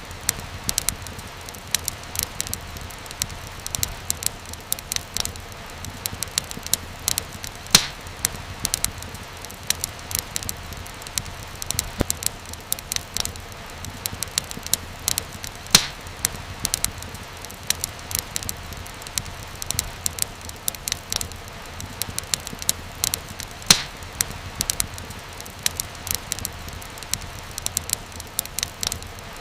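Wood fire crackling: a dense run of small sharp pops over a low, steady rumble, with a few louder pops about every eight seconds.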